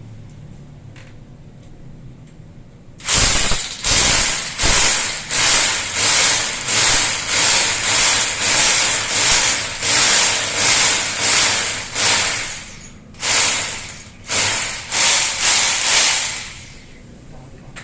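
Hand saw cutting with rapid, even back-and-forth strokes, about one and a half strokes a second, pausing briefly twice before stopping.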